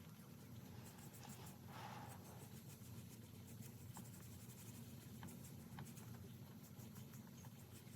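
Near silence: faint light scratching and scattered small ticks from handling craft supplies at a table, over a low steady hum. A soft rustle about two seconds in.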